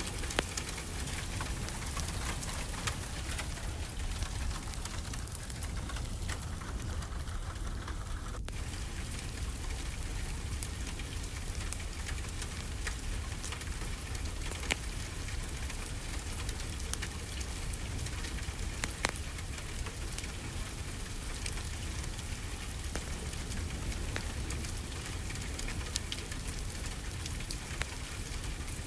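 Steady rainfall blended with a crackling wood fire: an even hiss of rain with scattered sharp ticks and pops.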